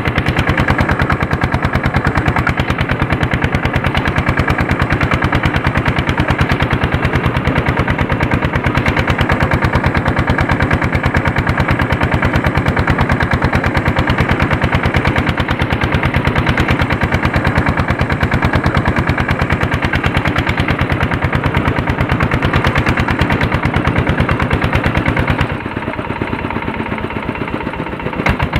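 Andoria S-231 diesel tractor engine running under load while pulling a harrow, a fast, even chugging of firing strokes. About three seconds before the end it briefly goes quieter and duller, then picks up again.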